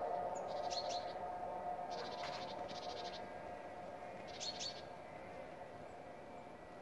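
A small bird chirping in several short, high, rapid trills, over a steady hum that fades away.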